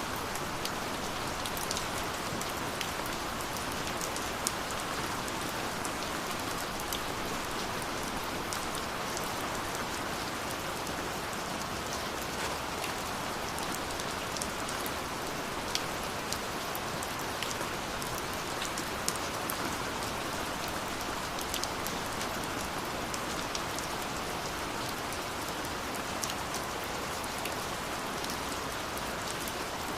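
Steady rain falling, a constant hiss with scattered sharp drop ticks throughout.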